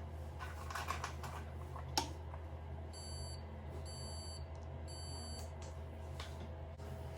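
Hoover Link washing machine sounding its end-of-cycle signal: three high-pitched beeps, each about half a second long and about a second apart, preceded by a single sharp click about two seconds in.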